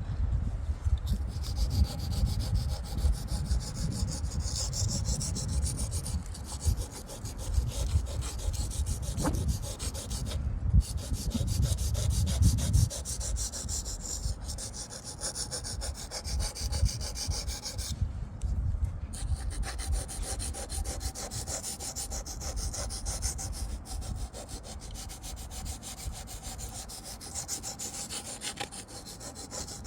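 Knife blade stroked back and forth on a water-soaked Wästikivi sharpening stone: a steady rubbing of many quick strokes, with two short breaks about ten and nineteen seconds in. The edge is being sharpened from dull.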